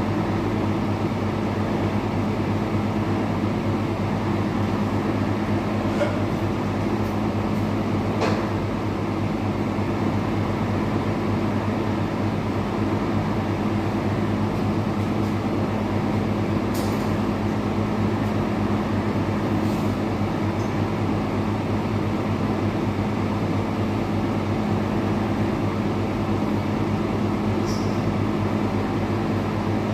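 Steady machine drone of a running motor, with a constant low hum and a few faint ticks and clicks over it.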